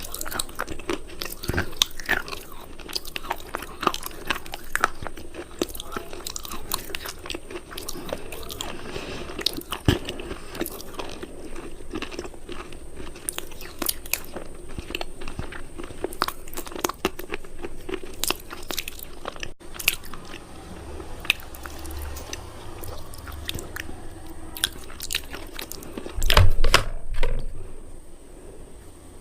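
Hard cubes being bitten and crunched close to the microphone: a dense run of sharp crunches and chewing, with one louder low thump near the end.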